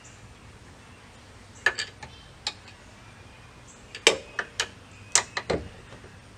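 Sharp metal knocks and clinks as a bolt is worked through the lined-up holes of a strut and steering knuckle: a couple about two seconds in, then a quick run of about six more near the end.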